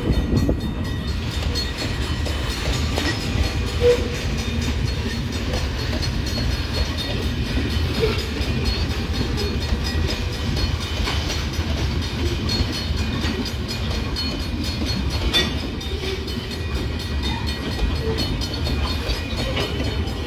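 Freight train of covered hopper cars rolling past a grade crossing: a steady rumble and clatter of steel wheels on the rails, with an occasional sharp knock.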